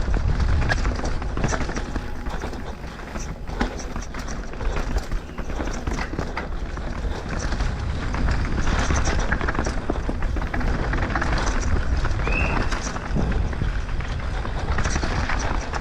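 Downhill mountain bike at race speed on a dirt trail: a steady low rumble of wind on the microphone and tyres on the ground, with constant sharp clicks and rattles from the bike over rough terrain.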